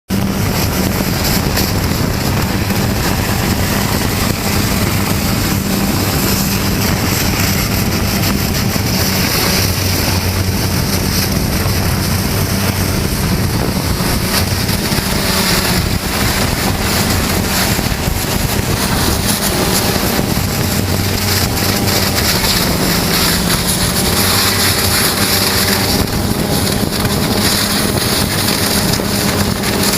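Hydrodemolition robot's high-pressure water jet blasting concrete: a loud, steady hissing rush over the constant hum of the pump engine.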